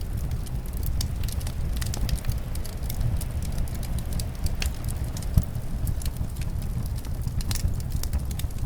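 Fireplace crackling, with a rapid scatter of small sharp pops and one louder pop about five and a half seconds in, over a steady low rumble of winter wind.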